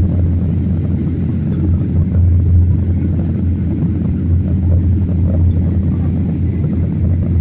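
Steady low drone of an airliner's engines and rushing air, heard from inside the passenger cabin in flight.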